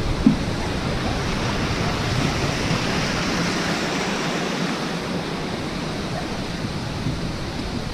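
Waterfall's water rushing and splashing in a steady, fairly loud wash of noise.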